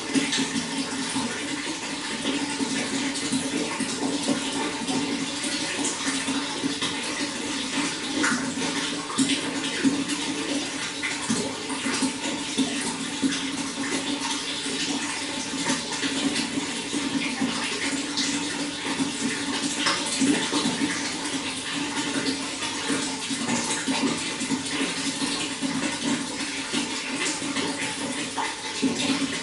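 Running water flowing steadily, a continuous rush broken by many small splashes and drips.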